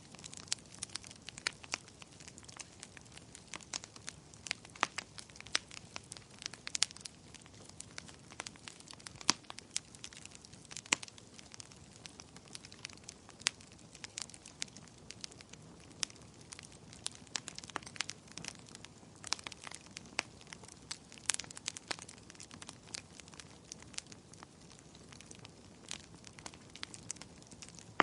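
Wood fire crackling: irregular sharp pops and snaps, some louder than others, over a soft steady low rumble.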